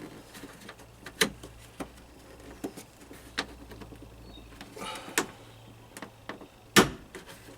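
Plastic boot-lid trim liner being prised at with a trim clip tool: a string of sharp clicks and knocks as the panel and its clips are worked loose, the loudest knock near the end.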